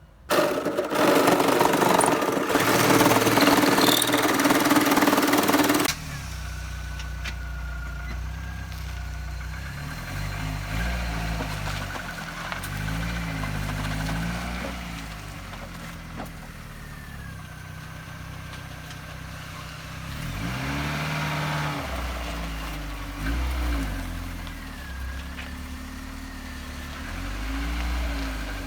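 A loud, harsh, steady noise for about six seconds, then a 1998 Isuzu Amigo's engine running and being revved, its pitch rising and falling again and again.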